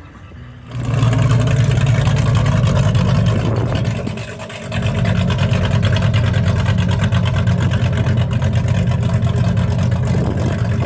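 Loud car engine and exhaust running with a fast, even pulsing. It dips briefly about four seconds in, then picks up again.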